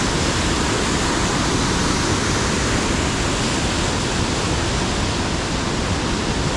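Waterfall and river rapids rushing over rock: a steady, even rush of water.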